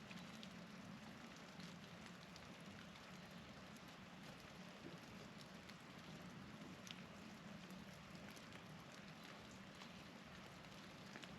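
Faint outdoor ambience in a snowstorm: a steady hiss with scattered light ticks of precipitation landing, over a low steady hum.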